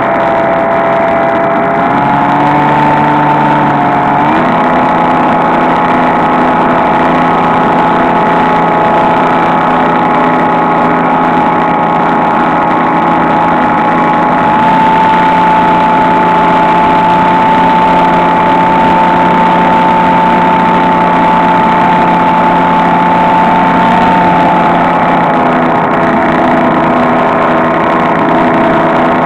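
Electric motor and propeller of a HobbyKing SkyEye FPV glider running steadily with a whine and a hiss of air. The pitch steps up a couple of times in the first few seconds as the throttle changes, holds, and eases down near the end.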